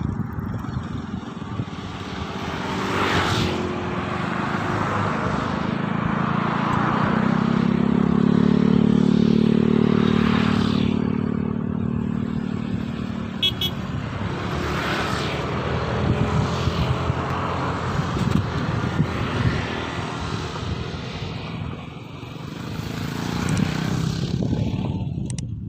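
Road traffic passing: several vehicles go by in turn, one with a deeper engine hum that swells and fades about eight to eleven seconds in.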